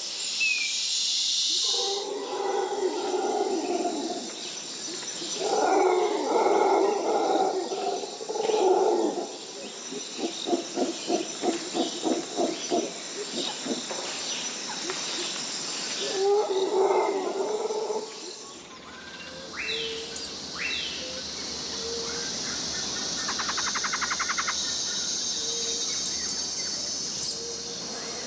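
Tropical rainforest ambience: loud, deep animal calls in long bouts over a steady high insect drone, with a run of rapid pulsed grunts in the middle. Past two-thirds of the way the scene changes to a denser insect chorus with scattered bird chirps.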